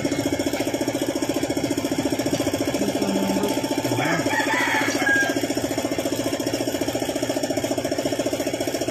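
Suzuki F6A three-cylinder engine idling with a steady, rapid, even pulse. A brief hissing, rattly noise comes over it about four seconds in.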